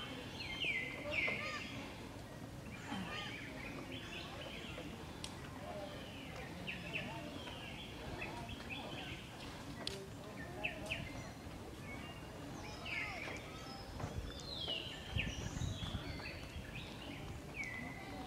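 Birds chirping and calling, many short calls that sweep down in pitch, repeated on and off over steady outdoor background noise, with a brief low rumble about three-quarters of the way through.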